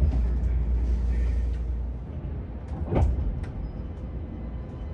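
Keisei Skyliner train running slowly alongside the platform, heard from inside the car. A low rumble eases off about two seconds in, and a single sharp knock comes about a second later.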